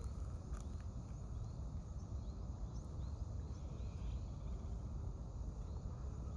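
Scattered short, faint bird chirps over a steady low rumble.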